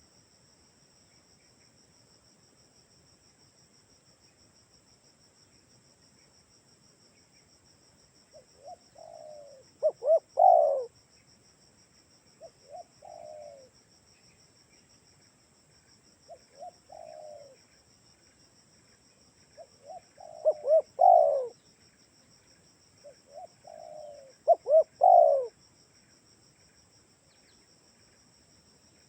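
Spotted dove (tekukur) cooing: after several quiet seconds, a series of low multi-note coo phrases a few seconds apart, some soft and some loud. A steady high trill of crickets or other insects runs underneath.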